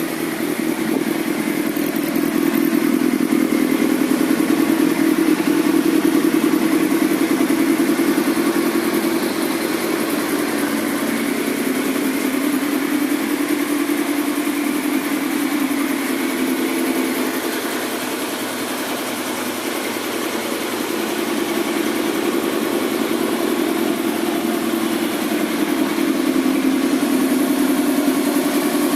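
Kawasaki ZX-10R inline-four engine, freshly rebuilt for the track, running steadily at idle on its first start after assembly, the level easing slightly down and back up over the run.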